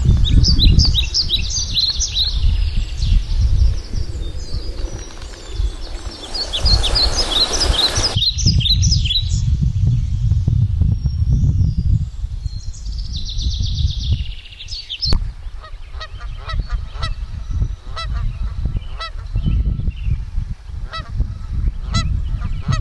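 Wild birds calling, many short notes at first and then a steady series of repeated calls, over a low rumble of wind on the microphone.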